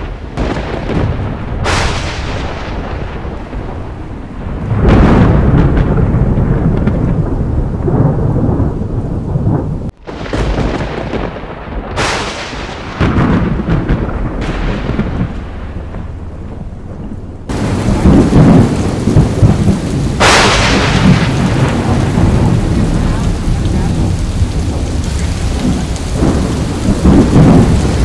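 Thunderstorm: repeated thunderclaps, each a sharp crack that rolls into long low rumbling, over steady rain. The loudest cracks come about two seconds in, about twelve seconds in and about twenty seconds in, and the sound cuts abruptly from one recording to the next twice.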